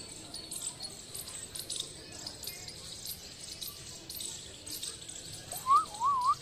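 Repeated short high chirps, about two or three a second, with a loud wavering whistle near the end that rises and falls twice.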